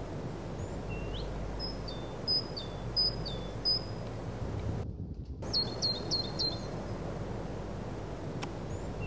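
A small songbird calling repeatedly: short high chirps, each dropping in pitch, given one after another in runs of three or four, with an occasional rising note. Underneath is a low steady rumble of wind on the microphone, and the sound cuts out for a moment about five seconds in.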